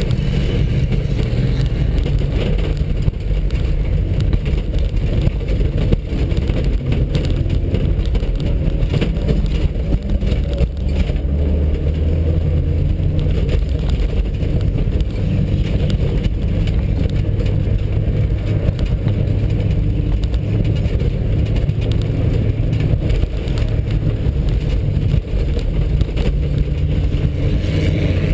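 VW Passat 2.0-litre four-cylinder engine under hard load, heard from inside the cabin, its low drone shifting up and down with engine speed. The car is racing over a rough dirt track, and the body and tyres add a steady rumble.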